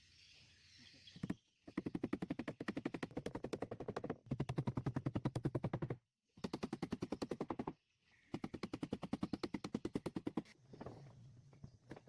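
A power tool hammering in rapid runs of sharp knocks, about ten or more a second, four runs of one to two seconds each with short breaks between.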